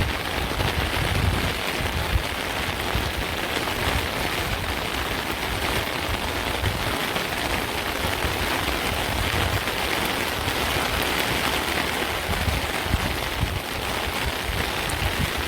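Steady rainfall, a dense even hiss of rain falling on hard surfaces, with an unsteady low rumble underneath.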